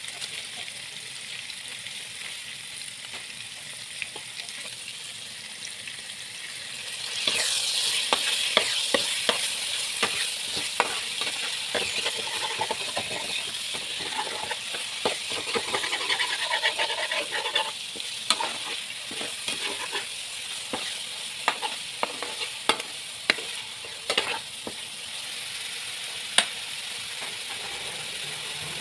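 Kroeung spice paste sizzling in oil in a nonstick frying pan while a spatula stirs and scrapes it, with many sharp clicks of the spatula against the pan. About seven seconds in the sizzling grows much louder and the clicking busier, then both ease off again a few seconds before the end.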